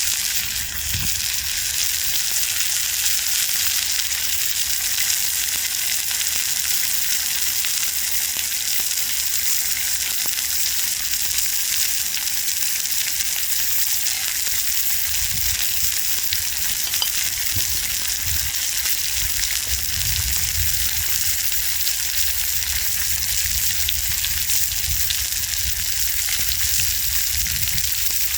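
Steak searing in a frying pan with potatoes over a campfire: a steady sizzle throughout.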